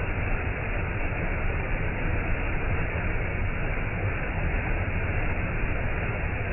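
Waterfall: a steady rush of falling water, unbroken and even, heaviest in the low end.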